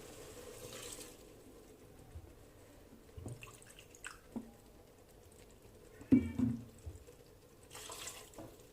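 Water poured into a pot of curry, with light clicks and a louder knock of a utensil against the pot about six seconds in.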